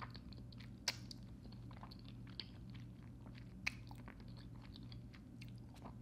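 Close-up mouth sounds of chewing creamy fettuccine Alfredo noodles: soft wet smacks and small clicks, with two sharper clicks about a second in and just before four seconds. A faint steady low hum runs underneath.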